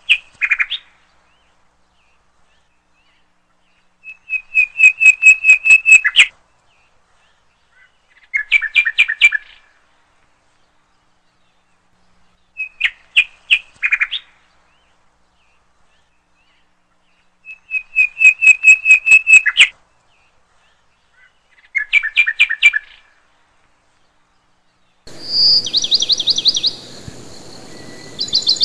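A small bird chirping in short, rapid trills: about seven bursts of quickly repeated high notes, each lasting one to two seconds, separated by complete silence, as in a birdsong track laid over the video. Near the end a noisier passage of chirps with a different pattern begins.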